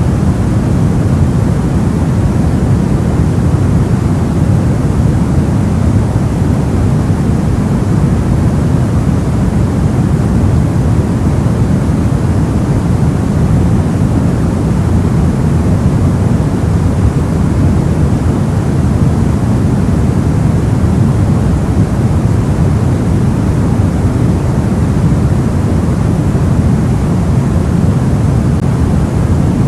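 Soft white noise for sleep: an even, unbroken hiss, heavy in the low end and muted in the highs, with no change at all.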